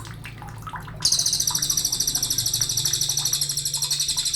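A sogon songbird singing a long, fast, even trill that starts about a second in, after a few faint short chirps.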